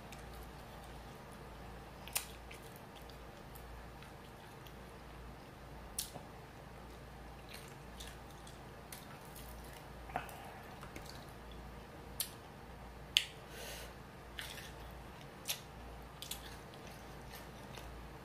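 Close-up eating of sauced fried chicken wings: wet chewing and smacking, with about ten sharp mouth clicks and bites spaced irregularly, over a faint low hum.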